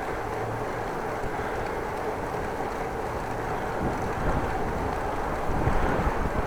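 Headwind buffeting the microphone during a bicycle ride, a steady rushing noise that turns gustier and louder in the last couple of seconds.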